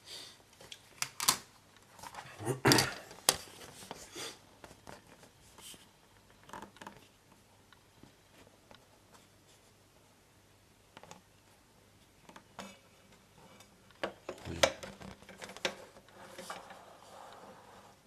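Plastic model kit sprues being handled and set down: scattered clicks and knocks, loudest about three seconds in and again near fifteen seconds, with a soft rustle near the end.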